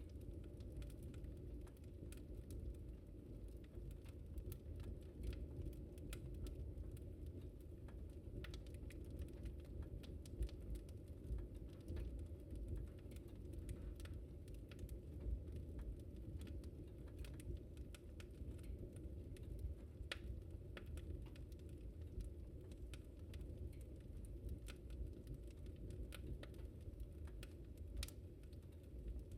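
Wood fire crackling in a fireplace: irregular sharp snaps and pops scattered throughout, over a steady low rumble of the burning fire.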